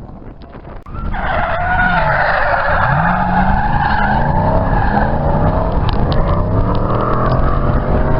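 Drift car's tyres squealing in a long slide while its engine revs rise and fall; the sound starts suddenly about a second in and carries on loud.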